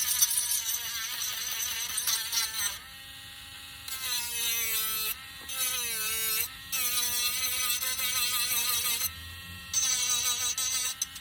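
Small handheld electric sander running against wood: a wavering motor whine under a loud high gritty hiss, the hiss breaking off several times as the sander is lifted, and the motor pitch dipping when it is pressed in.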